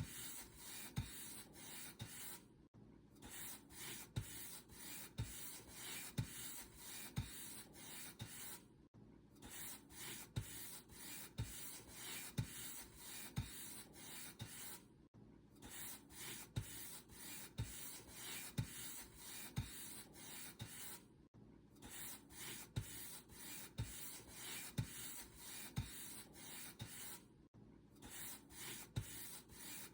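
Paint brush stroking back and forth over a surface: soft, scratchy strokes about twice a second, with a brief pause roughly every six seconds.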